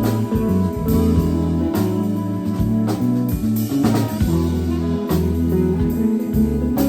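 Band music: guitar over a steady bass line, with a drum kit keeping time.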